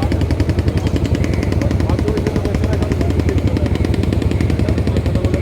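Motor boat's engine running steadily, a rapid, even chugging of closely spaced beats.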